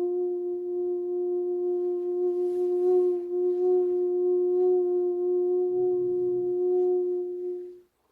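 Singing bowl tones ringing in a steady sustained hum, several pitches held together with a slight waver. The tones stop suddenly shortly before the end.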